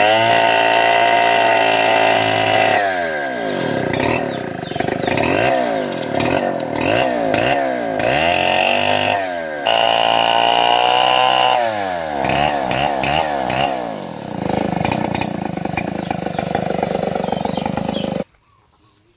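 Chainsaw engine running at high revs, its pitch repeatedly sagging and climbing back as the chain bogs in the wood and recovers, then running more evenly. The sound cuts off suddenly near the end.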